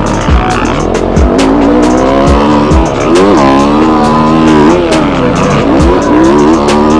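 Yamaha YZ250F four-stroke single-cylinder dirt bike engine revving up and down under riding on a motocross track, its pitch rising and falling repeatedly, with short low thumps every second or so.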